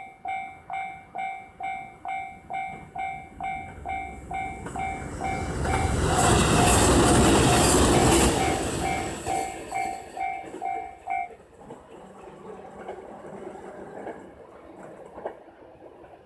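Level-crossing warning bell dinging about twice a second as a JR Hokkaido H100 diesel-electric railcar passes; the train's engine and wheel noise swell up and are loudest from about six to eight seconds in. The bell stops about eleven seconds in while the train's rumble and rail clicks fade away.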